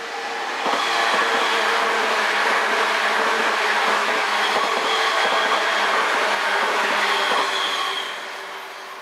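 A 185 series electric multiple unit train passing at speed. Wheels knock over rail joints under a steady running hum, loud from about a second in, then fading away near the end.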